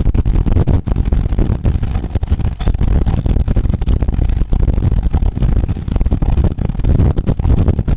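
Wind buffeting a camera microphone while riding a road bicycle: a loud, rumbling rush that flutters constantly.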